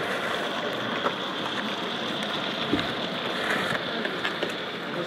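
00 scale model train running along the track: a steady whirring rumble with a few faint clicks.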